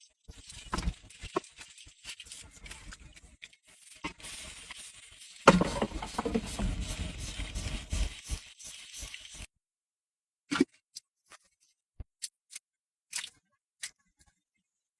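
Close handling sounds of face washing with bottled water: squishing, scraping and crinkling for about nine seconds, louder from about five seconds in, then a few separate clicks and taps.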